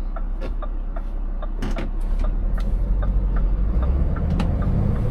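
Scania 590S V8 truck engine running, getting louder about three and a half seconds in, with a steady ticking about two and a half times a second and a few short sharp hisses.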